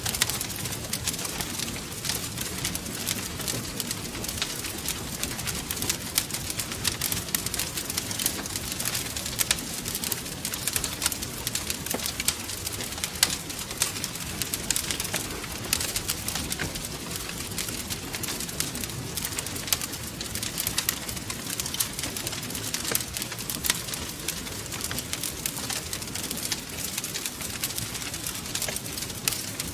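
Wood fire crackling steadily, with dense small pops and snaps over a low rumble.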